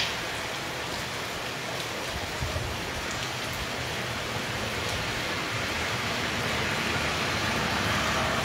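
Steady rain falling on a wet paved street, growing a little louder toward the end.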